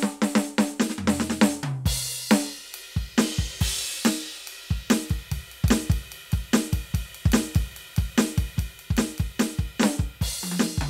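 Roland TD-17KVX electronic drum kit played through its sound module: a tom fill, a cymbal crash about two seconds in, then a steady beat of kick, snare and hi-hat, with another tom fill near the end.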